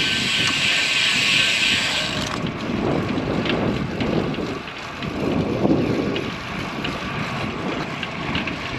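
Wind buffeting the microphone of a camera on a moving road bicycle, a gusty rumble that rises and falls. A high hiss sits over it and cuts off about two seconds in.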